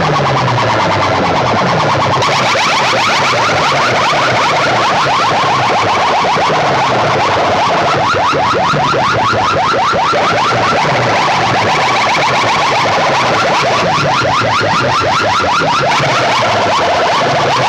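Large DJ sound system playing a loud, unbroken competition track of fast repeating siren-like electronic sweeps.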